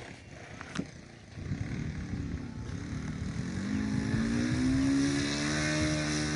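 A small motor or engine running up, its whine rising in pitch over about a second and a half and then holding steady. Before it there is a sharp click about a second in.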